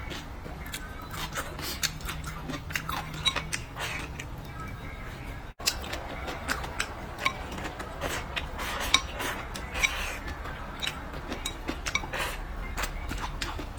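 Close-miked eating: chewing and mouth smacks, with many short clicks and clinks of utensils against dishes. A very brief break in the sound comes about halfway through.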